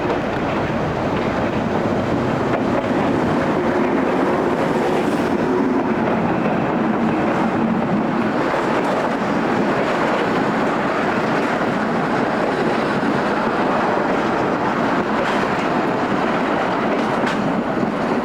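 Train running along the track: a steady, loud rumble of rail noise throughout.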